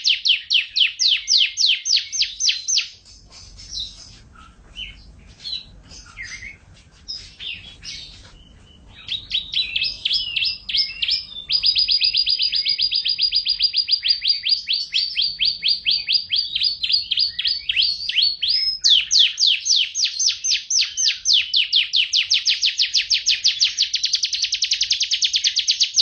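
Domestic canary singing in long rapid trills of repeated high notes. About three seconds in the trill breaks off into scattered, softer notes, then resumes near nine seconds with a very fast, even roll and more rapid sweeping trills.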